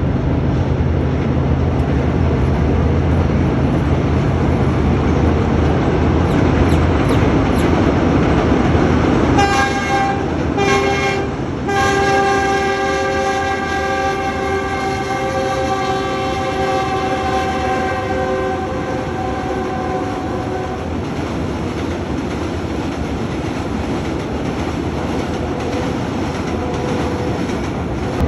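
Train running across a bridge with a steady rumble, its locomotive horn giving two short blasts about ten seconds in, then one long blast held for about eight seconds.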